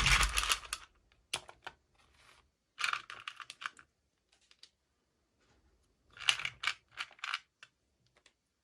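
Small plastic packaging and parts being handled during an unboxing: bursts of quick clicks and crinkles, a cluster at the start, another about three seconds in and another about six seconds in, with quiet pauses between.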